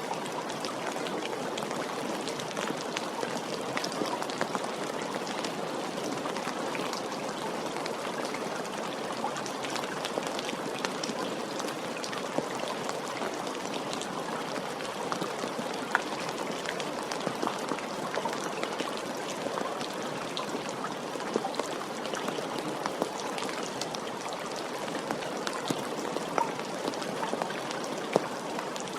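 Steady rain falling, a constant hiss with scattered sharper drop ticks landing close by.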